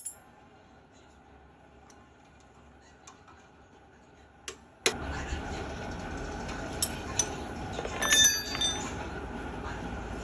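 Quiet room tone with a few faint ticks, then an abrupt jump to a steady background noise about five seconds in, and a quick cluster of ringing metal clinks near the end, from metal tools or engine parts being handled.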